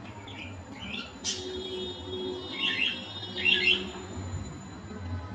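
Cockatiel giving short chirping calls: a few faint ones at first, then two louder, scratchy bursts in the middle.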